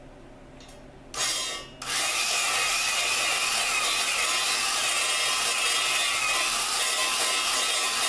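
Electric drill spinning an engine valve against its seat with lapping compound, a steady grinding rub. It comes on with a short burst about a second in and then runs continuously from about two seconds in.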